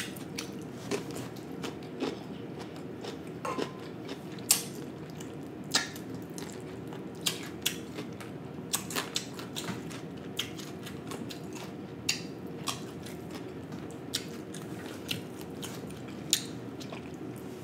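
Close-miked chewing and biting of food, with irregular sharp mouth clicks every second or so, while eating marinated cucumber slices and pieces of fried fish.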